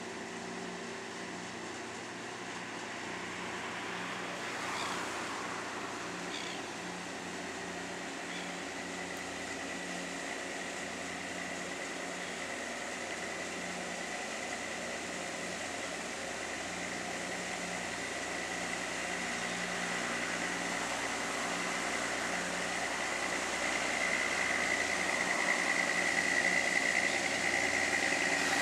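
Fishing boat's engine running as it heads out of the harbour: a steady drone with a high whine that grows gradually louder toward the end.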